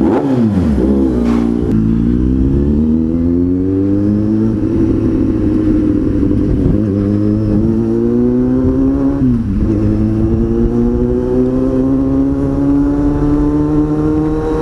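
Kawasaki Z800 inline-four with an SC Project aftermarket exhaust accelerating through the gears: the engine note climbs steadily and drops sharply at each upshift, about three times.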